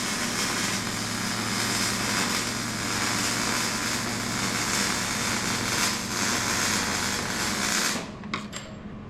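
Loud, steady rushing hiss that cuts off abruptly about eight seconds in, followed by a few light clicks and taps, over a low steady hum.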